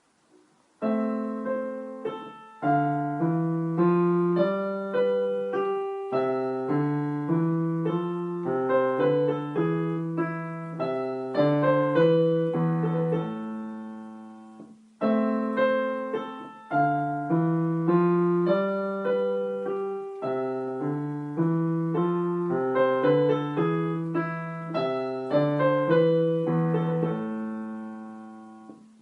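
Piano playing a short classical-style piece, note by note over a lower accompaniment. The music starts a little under a second in, reaches a held chord about halfway through, and then the same passage begins again.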